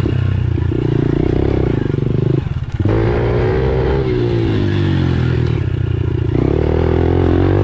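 Pit bike engine running hard while being ridden, its pitch rising and falling with the throttle; the throttle is cut briefly about two and a half seconds in, then the engine picks up again.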